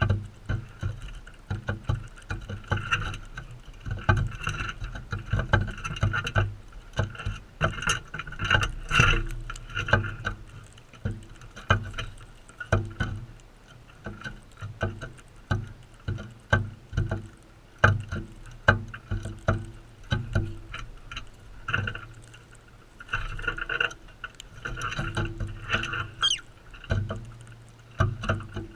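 Galahs feeding close to the microphone: many irregular sharp clicks and taps, with soft chattering and one short rising call near the end.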